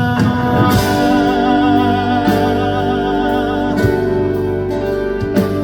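Live band playing a ballad. A held, wavering sung note trails off near the start into an instrumental passage of sustained chords, with a drum hit about every second and a half.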